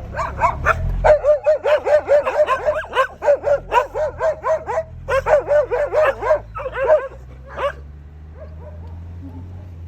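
A dog barking in a fast run of short, high barks, about four a second, with a brief pause about five seconds in, stopping near the end. A steady low hum runs underneath.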